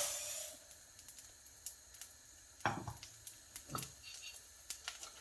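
Rice being handled in a frying pan with olive oil: a handful of short, separate clicks and scrapes of a utensil against the pan, with a faint hiss fading out at the start.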